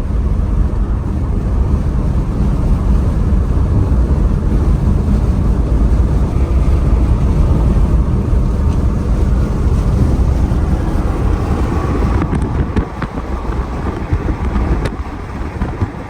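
Car on the move, its road noise mixed with loud, steady wind rumbling on the microphone; a few faint clicks near the end.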